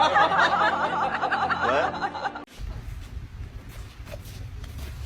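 A person laughing in a long run of giggles that cuts off suddenly about two and a half seconds in, followed by a low rumbling noise.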